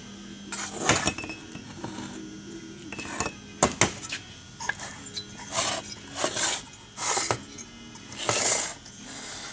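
Metal kart engine parts being handled on a bench: scattered knocks and clinks, with several rough scraping or rubbing noises in the second half.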